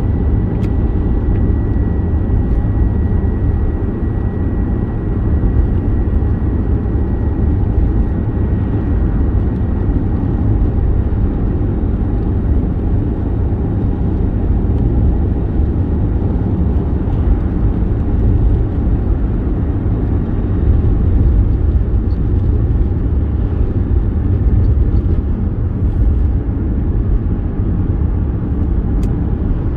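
First-generation Toyota Vitz driving: a steady rumble of engine and road noise with no change in pace.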